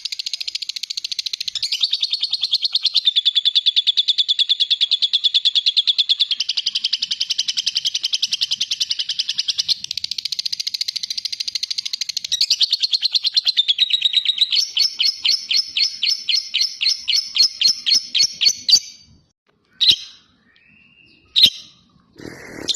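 Lovebird giving a long, unbroken 'ngekek' trill: a rapid high chatter that runs for almost twenty seconds, slows near the end into separate louder pulses at about five a second, then stops. Two short chirps follow.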